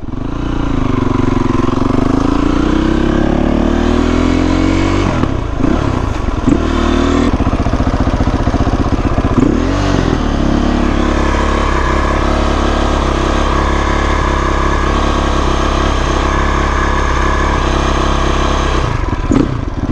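Motorcycle engine pulling hard with rising revs, briefly breaking and dropping in pitch two or three times as it shifts up a gear, then holding a steady pitch at cruising speed.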